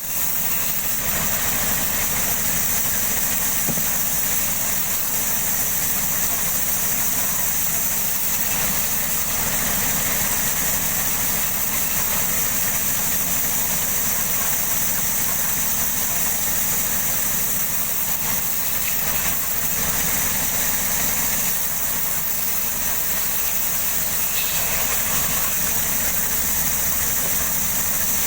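Big sawmill machinery running with a steady, unchanging mechanical noise and a strong high hiss.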